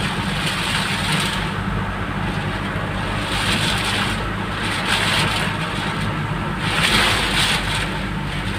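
Heavy rain and gusting wind on a car, heard with the car's steady low rumble; the hiss of rain and wind rises and falls in waves every second or two.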